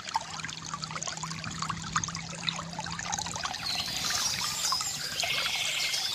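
Small stream trickling and gurgling steadily, with birds singing and chirping over it, most strongly in the second half.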